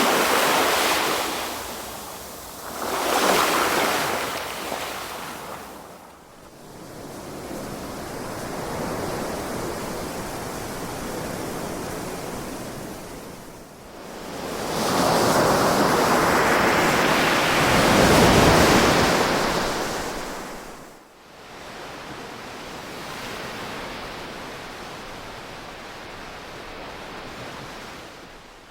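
Ocean waves breaking and washing up the shore, rising and falling in surges: one near the start, another a few seconds in, and a long, louder one in the middle, with a softer wash between them.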